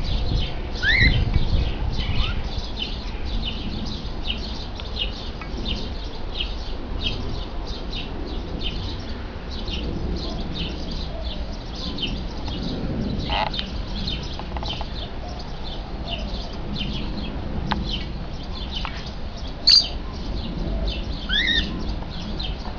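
Cockatiels and parakeets chirping, with short high chirps about twice a second throughout. A few louder rising calls come near the start and near the end, and one sharp, loud call about three-quarters of the way through.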